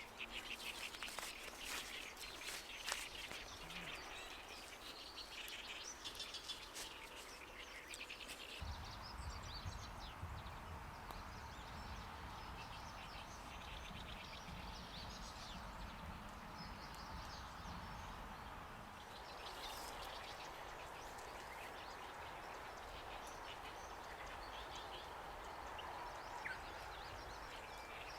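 Woodland ambience: birds chirping over steady outdoor background noise, with many short clicks and rustles in the first eight seconds. A steady low rumble comes in about eight seconds in.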